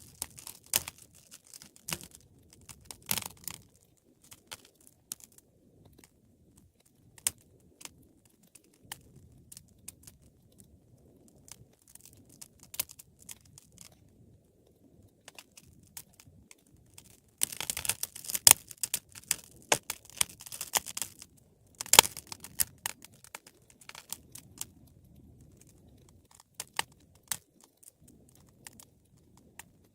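Wood fire crackling and popping over a faint low rumble of flames, with scattered sharp pops and a denser run of crackling for a few seconds a little past the middle.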